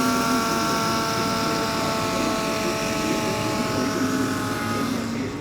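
A steady droning tone with several even pitches, holding level and stopping shortly before the end, with faint talk underneath.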